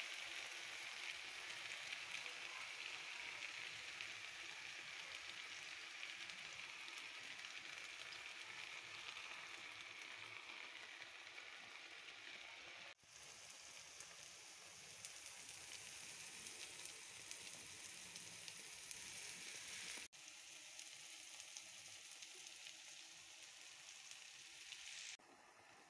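Wild greens sizzling as they sauté in a pan: a steady frying hiss, broken briefly twice and dropping much quieter just before the end.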